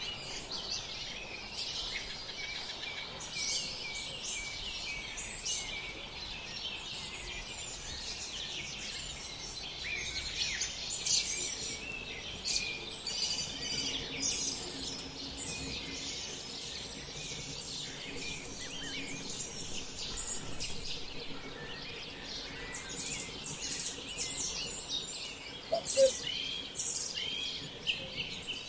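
Songbirds singing and chirping in a dense, overlapping chorus of short high chirps and trills. One brief, louder, lower call comes near the end.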